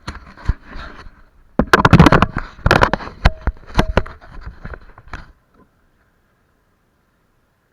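A burst of close-up knocks, clicks and scraping, like a camera or microphone being handled, loudest about two to four seconds in and stopping a little after five seconds.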